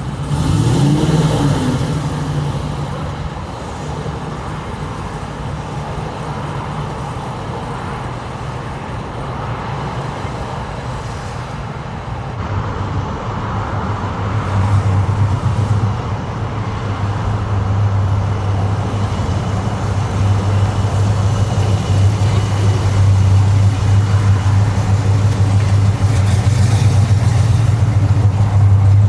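A car engine running close by, steady and low, with a short rev about a second in; it grows louder from about halfway.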